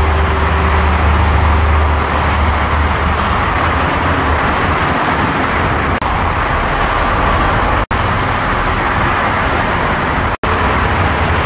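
Yamaha YBR motorcycle being ridden on the road: a steady low engine hum, strongest in the first few seconds, under heavy wind and road noise. The sound cuts out briefly twice near the end.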